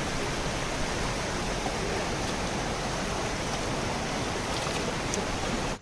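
Steady rushing of fast-flowing water, a stream or cascade running close by.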